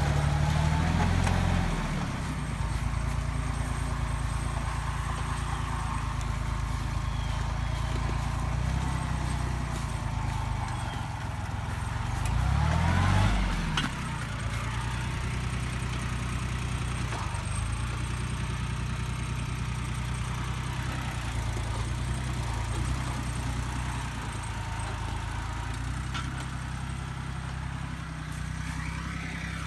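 Yanmar YM169D compact diesel tractor engine running steadily while plowing. About halfway through its pitch rises and falls once as it revs up and settles back.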